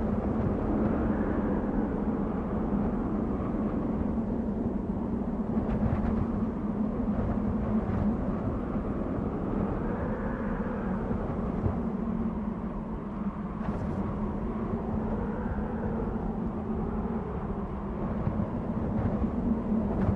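Desert wind blowing steadily, with a whistling tone that slowly swells and fades as the gusts rise and fall.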